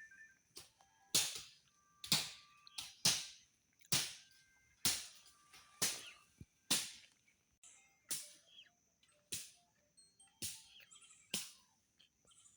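Machete strokes chopping through brush and vines, a sharp cut about once a second, spacing out a little in the second half.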